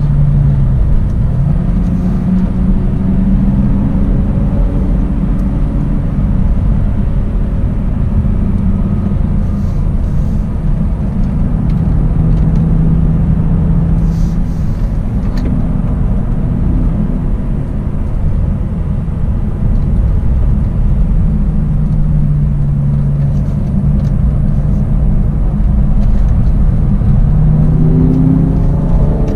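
BMW E46 330Ci's straight-six engine running on the move, heard inside the cabin over tyre and wind rumble. The engine note holds and shifts as the car slows through the corners, then rises in pitch near the end as it accelerates.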